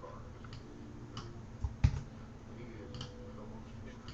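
Scattered short clicks from a computer mouse and keyboard, with one louder sharp knock a little under two seconds in.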